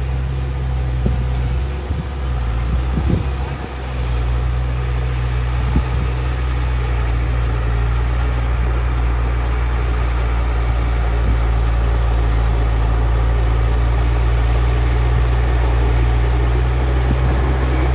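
Heavy diesel earthmoving engine running steadily, with a brief dip and a few faint knocks a few seconds in.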